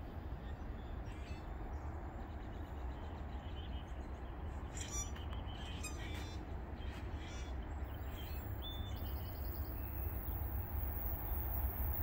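Songbirds give scattered short chirps and a brief rapid trill over a steady low outdoor rumble that grows louder toward the end.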